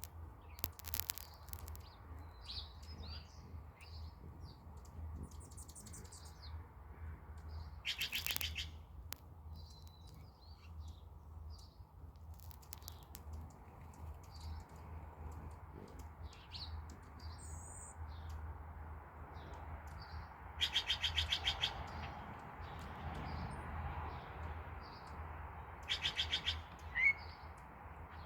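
Birds calling: scattered short high chirps and several loud, rapid chattering trains, each about a second long, twice early on and twice in the last third, over a steady low hum.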